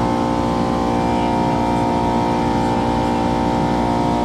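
A motor running steadily at constant speed: an even hum with a steady high whine on top.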